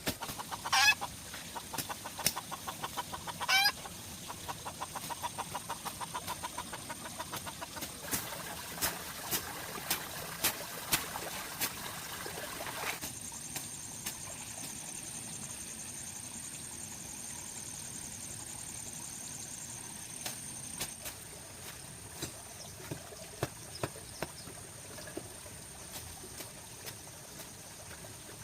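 Bird calls: two sharp falling calls near the start, then a rapid run of repeated notes lasting several seconds, with scattered clicks throughout. A steady high-pitched tone comes in about halfway through and later fades out.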